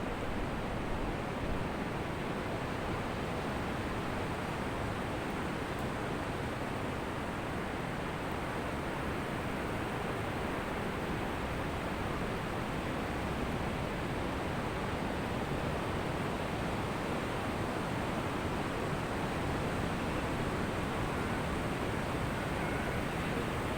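Ocean surf breaking on a beach, a steady, even rush of water without distinct single waves.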